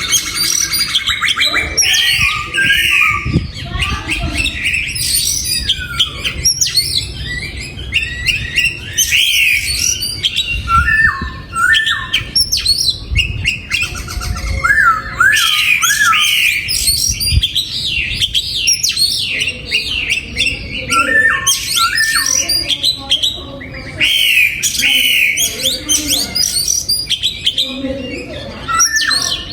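Oriental magpie-robin singing a long, varied song of whistled phrases, chirps and repeated short notes, almost without pause.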